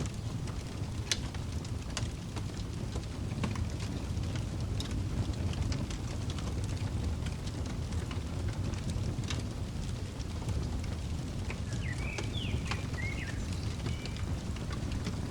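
Wood fire crackling, with scattered sharp pops over a low steady rumble. A few short bird chirps come in near the end.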